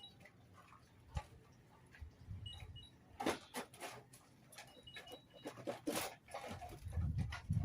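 German shepherd dogs moving about, making irregular scuffs and clicks, with a few short faint high squeaks.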